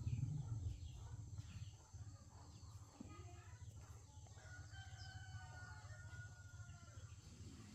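An animal call, one long held pitched note starting about five seconds in and lasting about two seconds, over a steady low rumble that is loudest in the first two seconds.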